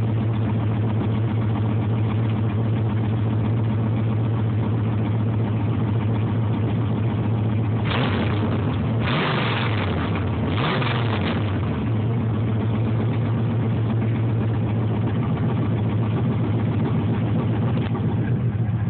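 1996 Chevrolet Camaro SS's LT1 V8 on long-tube headers idling steadily, then blipped up in a few quick revs about 8 seconds in that fall back to idle. The engine has an exhaust leak at a gasket and runs smoothly, without the misfire it develops once warm.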